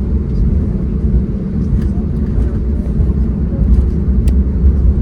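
Airbus A321neo cabin noise while taxiing to the runway: a steady low rumble of the engines and rolling airframe, with a few faint clicks.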